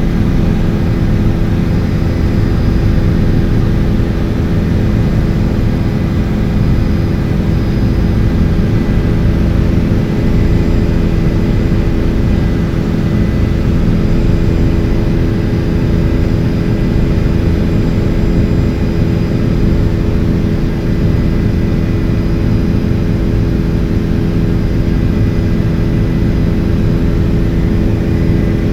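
Helicopter in flight: the turbine engine and rotor make a loud, steady drone with a few constant humming tones over a low rumble.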